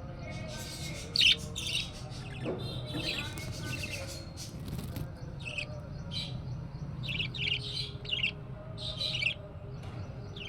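Budgerigar chicks chirping in short, high calls again and again, the loudest about a second in.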